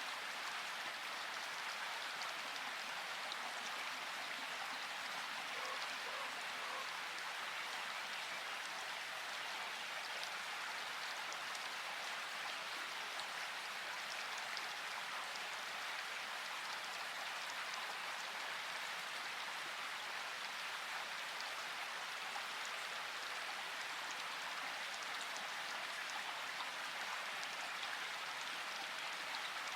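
Steady rain falling, an even hiss of many drops with fine scattered patters.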